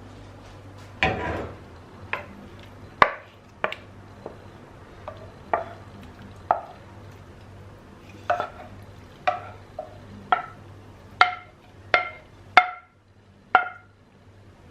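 Kitchenware knocking: a utensil clinking against a pot or dish about fifteen times at an uneven pace, roughly once a second, each knock with a short ringing tone.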